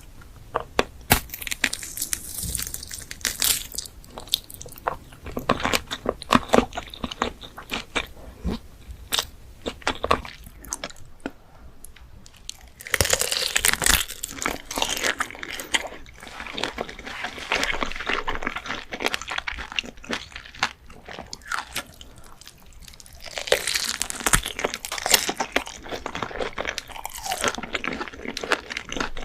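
Close-up eating sounds of hot dogs being bitten and chewed, with crunching and many sharp clicks. The chewing comes in denser, louder spells about halfway through and again near the end.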